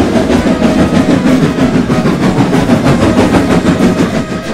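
Trains hauling a long line of wagons along track: a steady, rapid rattling clatter of wheels and wagons.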